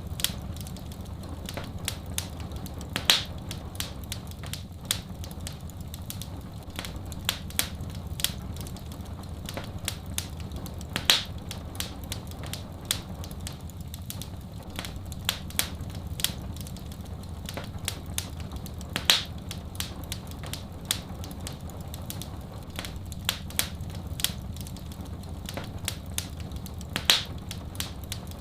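Wood fire crackling, with many small sharp pops and a louder pop about every eight seconds, over a steady low rumble and a faint hiss of soft rain.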